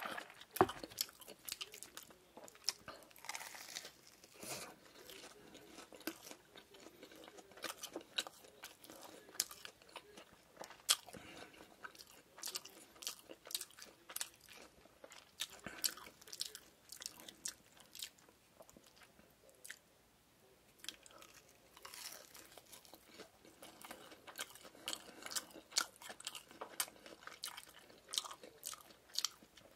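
Close-miked biting and chewing of a fried shrimp-patty burger, the crisp breaded patties crunching in a steady run of sharp crackles, with a short lull about two-thirds through.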